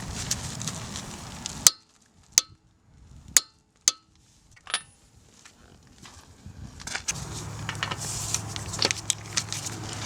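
Sharp metallic clicks and clinks of hand tools against metal during axle work on the car. The background sound drops away after about a second and a half, leaving a few isolated clicks, then returns near the end with a steady low hum.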